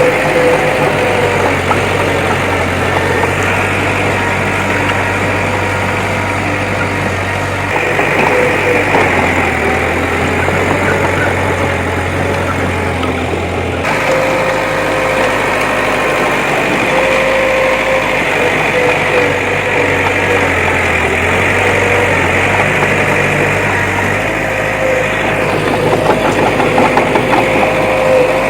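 Engine of heavy earthmoving machinery running steadily, with a steady whining tone over the engine note; the sound changes abruptly about halfway through.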